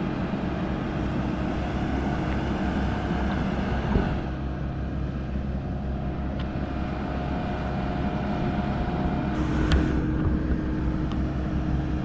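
Steady machine hum and low rumble from a parked Fly91 ATR 72 turboprop airliner on the apron, with a couple of brief knocks.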